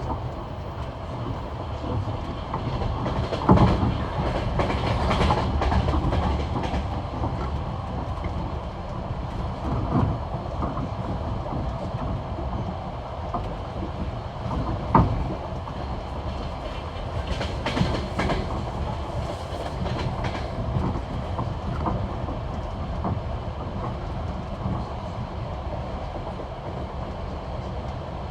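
Passenger train's wheels clacking over the rail joints of jointed track at high speed, over a steady rumble of the carriage. Sharp knocks stand out about 3.5 seconds in and again, loudest, about 15 seconds in.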